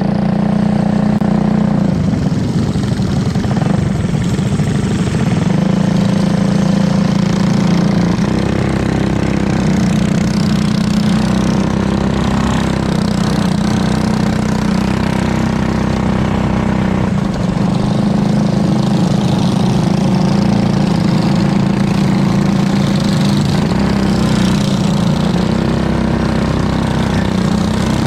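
Briggs & Stratton LO206 single-cylinder four-stroke kart engine running loud and fairly steady, its pitch shifting only slightly.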